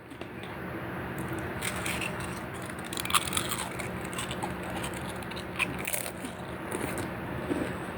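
Dog gnawing on a bone: irregular crunching with a few sharp cracks.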